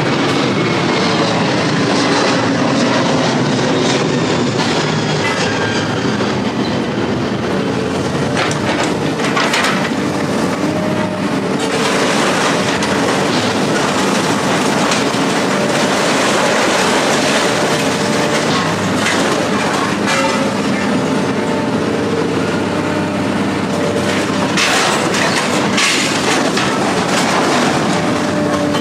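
Heavy vehicle's engine running steadily under an even rumble, with irregular rattling and clattering throughout.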